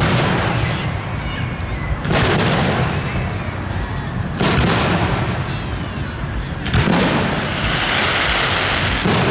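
Aerial fireworks shells bursting: five sharp booms about two seconds apart over a continuous rumble.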